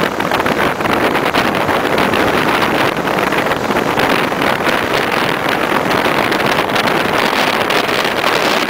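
A passenger train running at speed, heard from a carriage window: a steady rush of wind on the microphone over the train's rolling noise on the rails.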